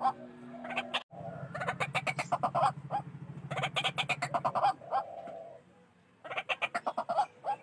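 White-breasted waterhens calling in fast runs of harsh, repeated notes, the rail's loud 'ruak-ruak' call, coming in several bursts about a second long with short gaps between. A low steady drone sits under the calls from about a second in until the middle.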